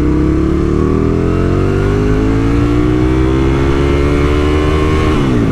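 Aprilia RSV1000's V-twin engine accelerating under load, its pitch rising steadily for about five seconds, then falling sharply near the end.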